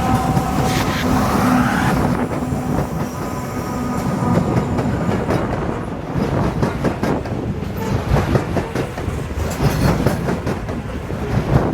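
Loaded coal hopper cars rolling past, their steel wheels clicking again and again over the rail joints over a steady rumble, with wind buffeting the microphone.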